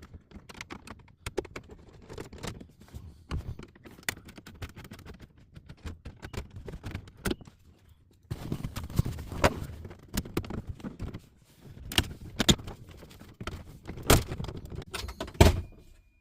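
Irregular clicks, rattles and knocks of hand work on car interior trim: Torx screws being taken out and plastic kick-panel trim handled. The handling grows busier about halfway through, with a couple of sharper knocks near the end.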